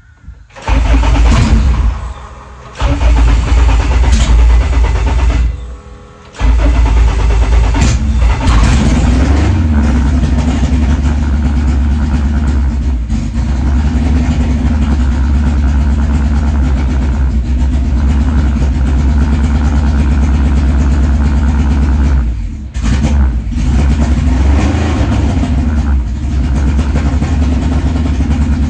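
Honda K24 four-cylinder engine in a DA9 Integra starting up loud, faltering twice in the first six seconds, then catching and running steadily, with a rev around nine seconds in.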